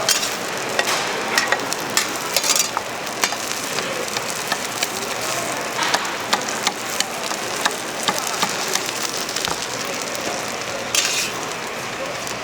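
Large Korean pancakes sizzling in oil on a flat griddle: a steady frying hiss with many short clicks and taps throughout.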